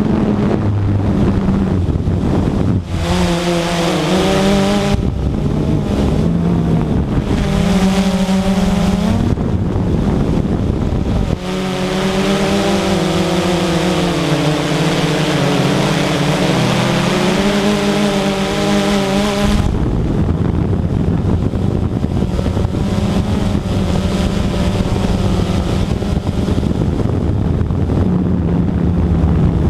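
Radio-controlled model airplane's motor running in flight, its pitch rising and falling as it passes, loudest for about the middle half, over wind rumble on the microphone.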